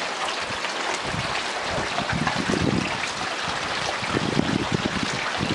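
Steady hiss of rain falling during a thunderstorm, with gusts of wind buffeting the microphone from about a second in.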